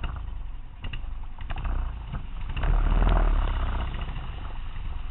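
Motorcycle engine running, its low rumble swelling louder about halfway through and then easing off, with a few light clicks before it.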